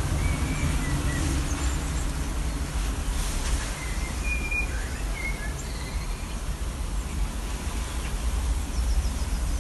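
A few short, high bird chirps over a steady low rumble, with the chirps clustered near the start and again around four to five seconds in.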